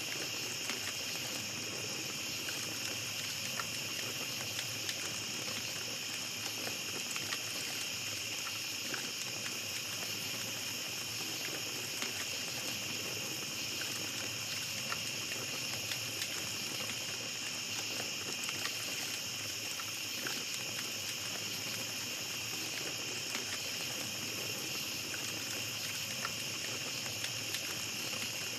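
Small campfire crackling with frequent short pops and ticks, over a steady high-pitched chorus of night insects.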